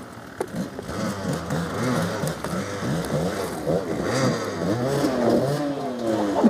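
Off-road motorcycle engine revving in repeated throttle blips, its pitch rising and falling over and over.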